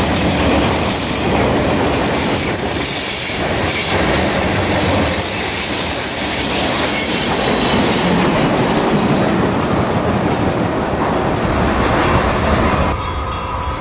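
Freight cars of a mixed manifest train rolling past: a steady rumble and clatter of wheels over the rails, with high wheel squeal on the curve that fades about ten seconds in. The sound changes abruptly about a second before the end.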